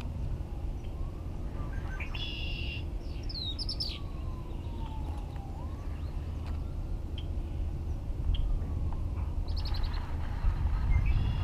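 Birds chirping, a cluster of quick high notes about two seconds in and another near the end, over a distant siren slowly wailing down and up. A steady low rumble runs underneath.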